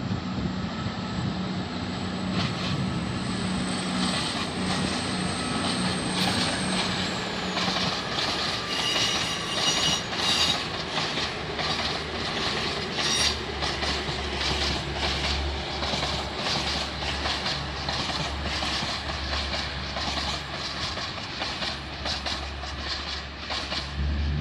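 A train running through the station, its wheels clicking over the rail joints, with brief high-pitched squeals about ten seconds in. A low steady drone comes in about halfway through.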